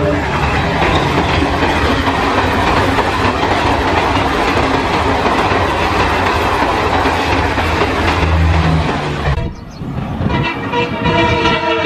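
A train passing at speed: a loud, steady rush of wheels on rails that drops away suddenly about nine and a half seconds in. About a second later a locomotive horn starts sounding and is held to the end.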